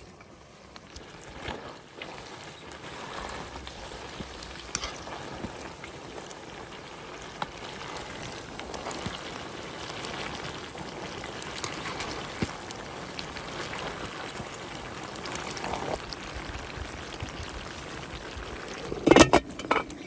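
Mutton sizzling and crackling as it cooks, a steady hiss with scattered pops. A brief, loud sound cuts in about a second before the end.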